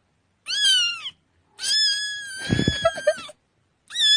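High-pitched cat meows, cut into a cat-meme edit: a short falling meow about half a second in, a long held meow from about one and a half to three seconds, and another long meow starting near the end.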